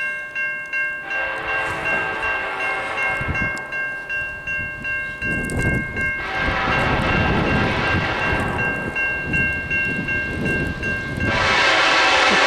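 Diesel freight locomotive air horn sounding a long multi-tone chord. About five seconds in, the rumble and rush of the lead locomotives passing at track speed builds and is loudest near the end.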